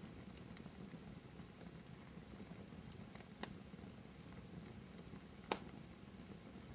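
Wood fire burning in a fireplace: a low steady rush with faint crackles and two sharp pops, the louder one near the end.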